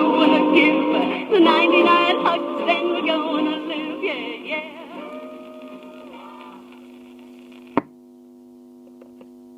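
Closing bars of a 1960 pop song played from a shellac 78 rpm record, fading out over the first seven seconds or so. A single sharp click comes near eight seconds in, then a steady low hum.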